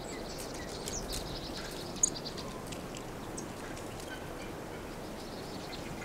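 Small birds chirping over a steady faint outdoor hiss. There is a quick run of high chirps about a second in and one sharper chirp at about two seconds.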